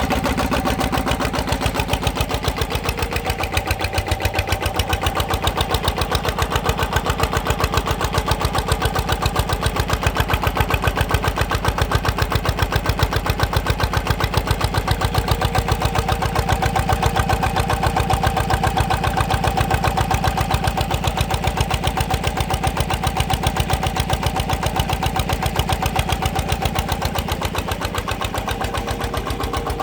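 Single-cylinder diesel engine of a walk-behind power tiller running steadily with an even, rapid chugging beat, driving the hydraulic pump of a log splitter.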